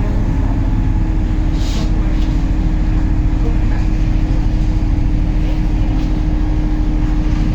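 MAZ-203 city bus running steadily on the move, a low engine and road rumble with a constant hum, as heard by a passenger aboard. A short hiss comes about two seconds in.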